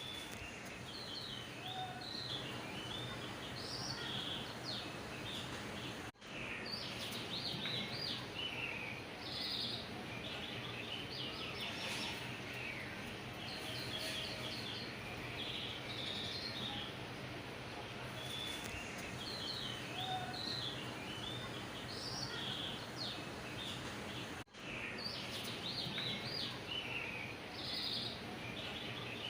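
Birds chirping and twittering over a steady low hum, cut twice by a brief dropout; the same stretch of birdsong repeats, as in a looped background track.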